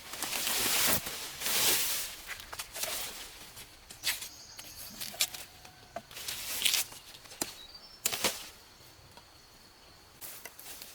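Repeated short rustling swishes and a few sharp clicks or snaps, with faint high thin tones in the background.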